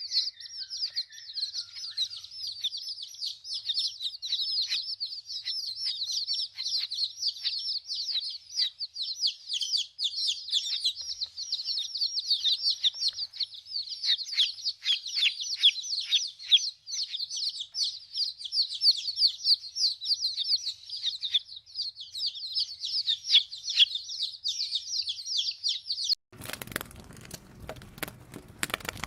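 Many small birds chirping together in a dense, continuous run of rapid, high chirps. About three seconds before the end this cuts off suddenly to a crackling, rustling noise.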